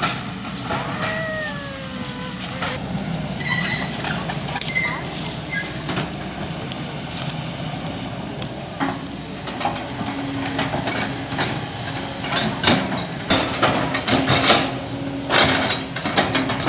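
Excavator's diesel engine running steadily, with a few high squeals in the first seconds and sharp metallic knocks and clanks coming more often in the second half.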